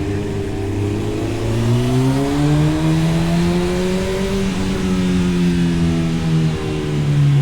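Honda CB1000R's inline-four engine through an Arrow aftermarket exhaust, pulling under way. The engine note climbs steadily for a few seconds, eases back gently, then drops in pitch near the end.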